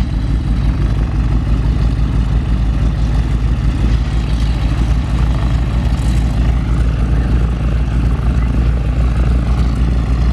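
Stearman biplane's 450-horsepower radial engine and propeller running steadily, warming up on the ground after start-up.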